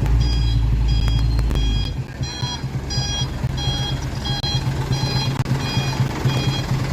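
A truck's electronic warning beeper sounds a rapid repeating beep, about two to three a second, over the steady hum of the running truck engine. A heavier low rumble fills the first two seconds.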